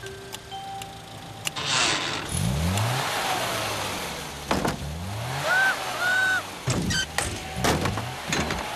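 Cartoon sound effects of a small car's engine revving up and down in short spurts as it manoeuvres, with several sharp bumper knocks in the second half and two short high beeps around the middle.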